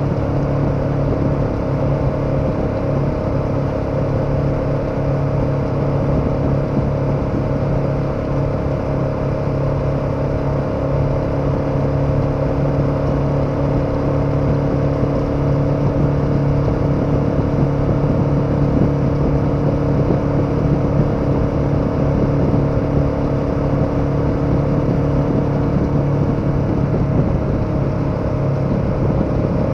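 KTM 1290 Super Adventure's V-twin engine running steadily at an even pitch as the motorcycle cruises at a constant speed, with a steady rush of wind and road noise underneath.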